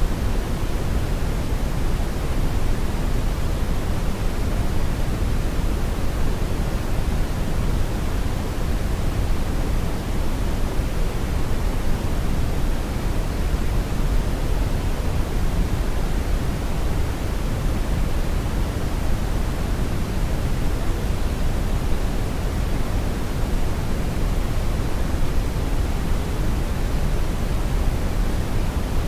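Steady brown noise: an even, deep rushing hiss weighted to the low end, with no change or events.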